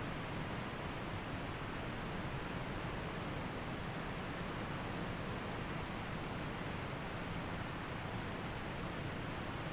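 Waterfall and mountain creek rushing in a steady, even roar of water.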